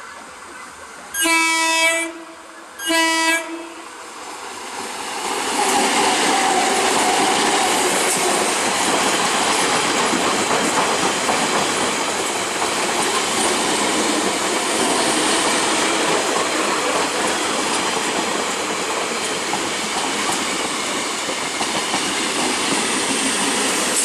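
Electric multiple-unit local train sounding two horn blasts of about a second each, then passing close by with a loud, steady clatter of wheels over the rails that lasts for the rest of the time.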